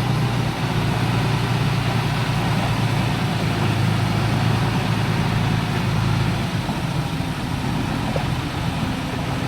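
Heavy diesel earthmoving machine running steadily with a low engine hum that drops off somewhat about six and a half seconds in.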